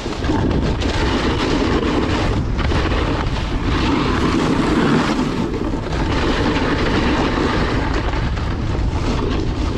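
Snowboard sliding and scraping over snow during a run: a steady, loud rushing scrape with a low rumble.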